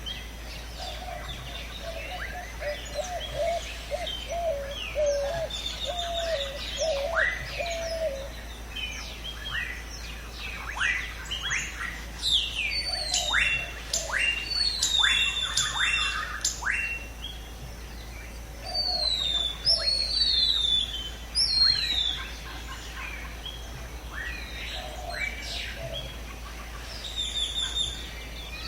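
Several birds calling and singing together in a mixed chorus: a low warbling call repeated over and over for about the first eight seconds, then many quick chirps and falling whistles overlapping, busiest in the middle.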